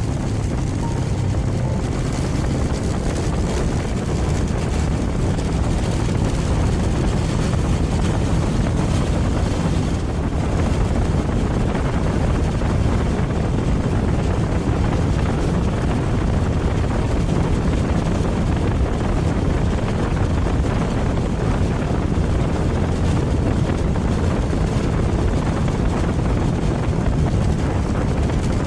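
Suzuki Thunder 250 motorcycle engine running steadily while riding, with heavy wind noise over the microphone.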